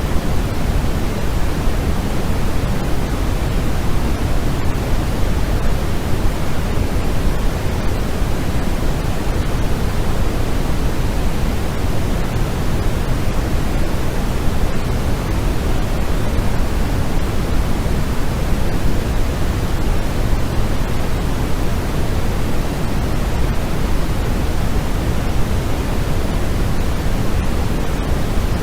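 Continuous synthetic white noise for sleep: a steady, unchanging rushing hiss, weighted toward the deep end rather than the treble.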